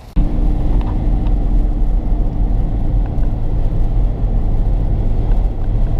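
Car driving on the road: a loud, steady low rumble of road and engine noise with a faint hum, starting abruptly just after the start.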